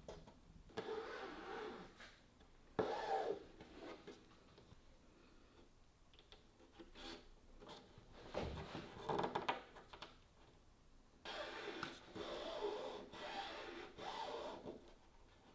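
Wood being rubbed and scraped by hand in irregular strokes of about a second each, with quiet gaps between them. There is a dull knock about eight and a half seconds in.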